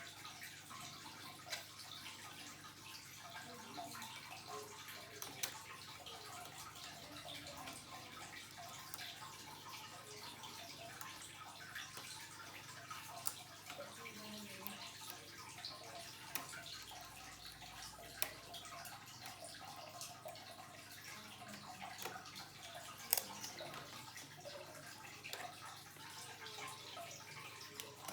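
Faint, irregular small clicks and ticks over a steady low hiss, a few of them sharper.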